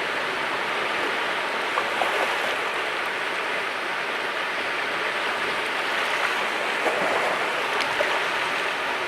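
Mediterranean sea waves washing on the shore in a steady rush of surf, with a few small splashes.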